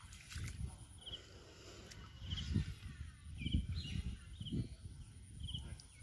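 A bird repeating a short, high chirp about once a second, over several dull low thumps.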